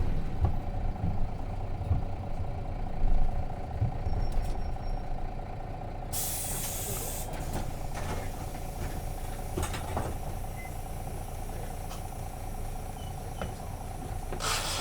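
Nissan Diesel RM bus's FE6 inline-six diesel engine running, heard from inside the bus, dropping to a steadier, quieter idle-like hum after about three seconds. About six seconds in there is a loud burst of compressed-air hiss from the bus's air system lasting about a second, and a shorter hiss comes near the end.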